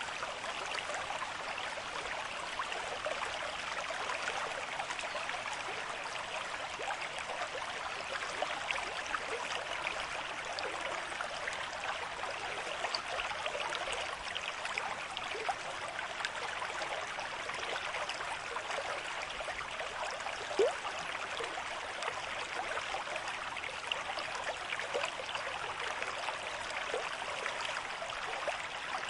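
A river stream with moderate flow, running steadily with a dense splashing over the whole stretch. One brief, louder plop comes about two-thirds of the way through.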